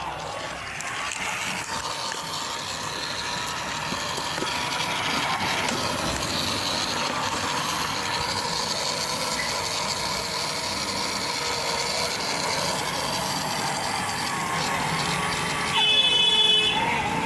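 Small battery-powered DC motor of a homemade mini washing machine switching on and whirring steadily with a rattle as it churns the cloth and water in the closed box. A short, louder, higher-pitched sound near the end.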